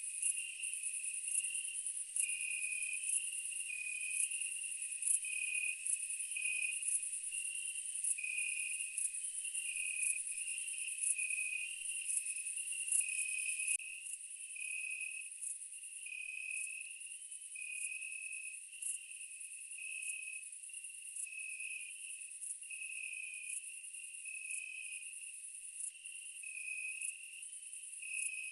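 Insect chorus of crickets: a steady high trill with regular ticks, over a lower chirping that pulses in a repeating rhythm, a little quieter from about halfway through. No eruption sound is heard.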